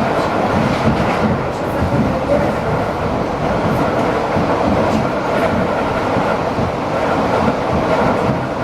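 ED4M electric multiple unit running at speed between stations, heard from inside the carriage: a steady running noise of wheels on rails and the car body.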